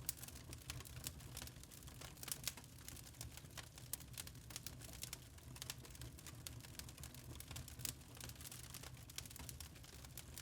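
Wood fire crackling in a fireplace: irregular small pops and snaps, a few sharper ones, over a low steady rumble of the flames.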